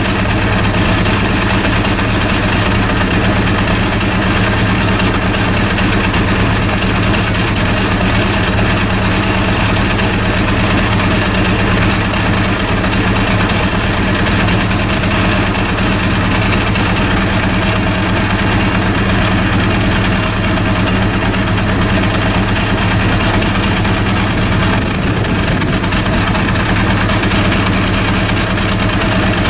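Honda CB400 inline-four engine idling steadily with an even, unchanging note.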